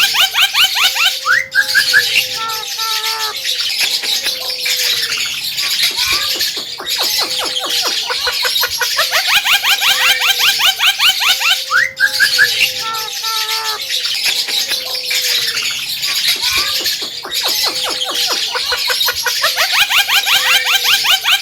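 Javan myna (jalak kebo) singing loudly: fast chattering runs of notes mixed with short whistles and harsh squawks, the same phrases repeating over and over.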